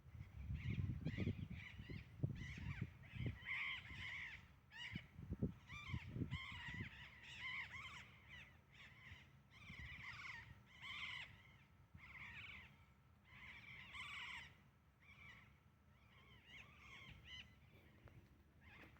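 Birds calling over and over in short, pitched calls about once a second. Low thumps come and go during the first several seconds.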